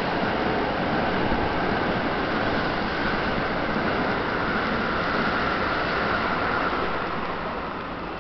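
Keikyu 1000 series electric commuter train pulling into the platform, its wheels and motors running with a steady rumble that eases near the end as it slows to a stop.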